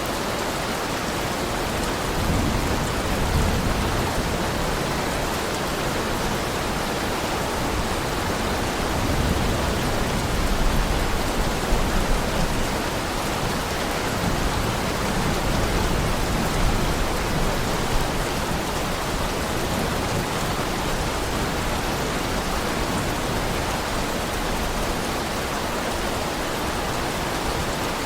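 Heavy rain falling steadily, with deep low rumbles swelling a few times.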